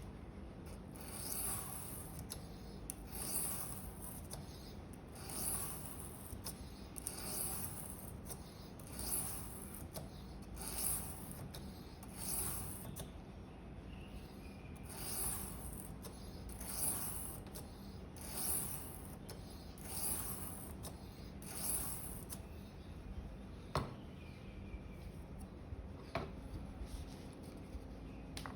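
Steel knife blade stroked steadily across a whetstone, about a dozen evenly spaced gritty scraping strokes, refining the burr on a Victorinox paring knife's edge. The strokes stop about 22 seconds in, followed by a couple of sharp clicks.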